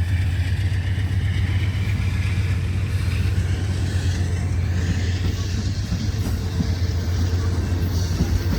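Diesel locomotive engine running with a steady low rumble as the passenger train stands ready to depart.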